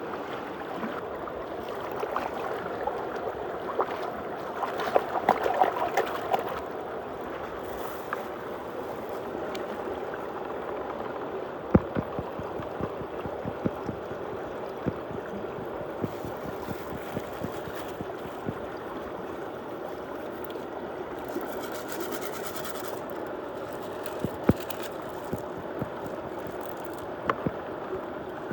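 Muddy water gurgling as it swirls and drains down a hole in a tube, with scattered sharp ticks and a louder bubbling stretch about five seconds in.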